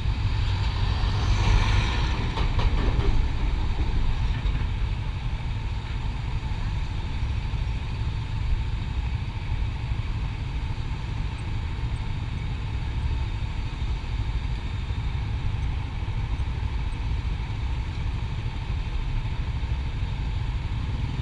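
Motorcycle running, with steady road noise and a low wind rumble on the microphone; it grows louder for a couple of seconds about a second in, then settles to an even level.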